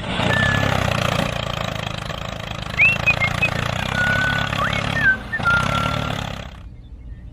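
Tractor engine running steadily, with a few short high chirps over it; the engine sound stops about six and a half seconds in.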